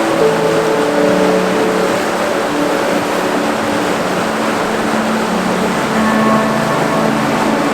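Steady rushing of a waterfall, with soft music of long held notes that change slowly underneath.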